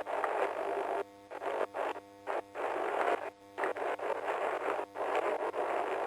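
Police radio channel hissing with static, the noise cutting in and out abruptly several times as transmissions key up and drop, with no clear words.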